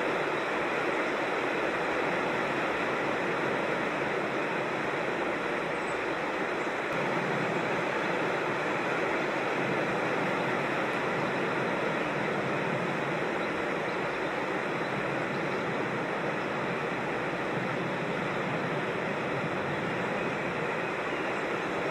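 Creek water rushing steadily over rocks, an even, unbroken hiss.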